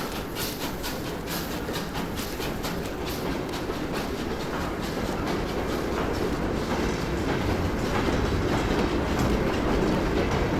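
Train passing on rails, its wheels clicking rhythmically over rail joints, about three clicks a second at first, then a steady rumble that grows a little louder.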